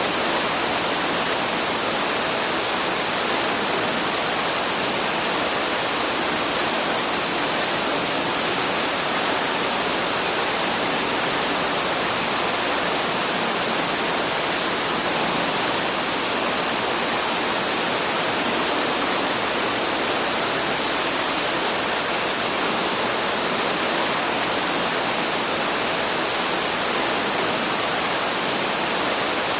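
Waterfall rushing steadily: an even, unchanging wash of falling water.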